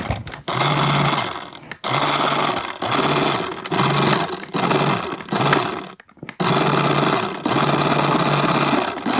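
Toy-grade RC car's small electric motor and gears whirring in about seven bursts of roughly a second each as the throttle is pressed and released.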